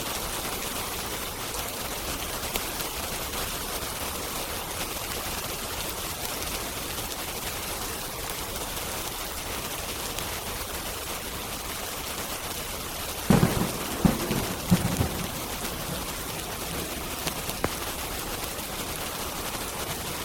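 Steady rain hiss, with a quick cluster of loud crackling pops from a wood fire about two-thirds of the way through and a couple of fainter pops a few seconds later.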